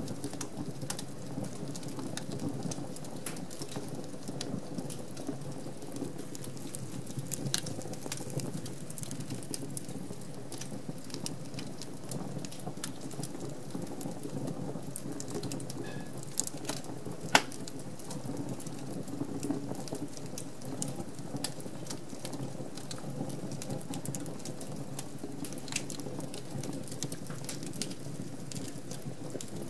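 Wood fire crackling in a fireplace: a steady low rush of flame with frequent small crackles and one louder pop just past the middle.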